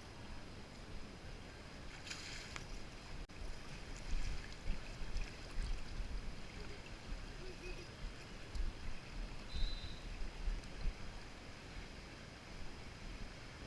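Water lapping and splashing around an inner tube floating down a lazy river. There is a brief splash about two seconds in, low rumbling bumps on the microphone through the middle, and a short high chirp near the end.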